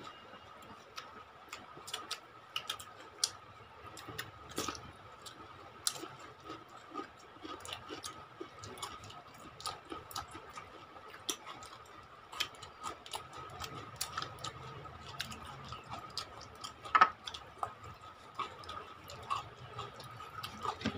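People eating rice and chicken curry with their hands: irregular wet clicks and smacks of chewing mouths, some sharper than others, over a faint steady high-pitched whine.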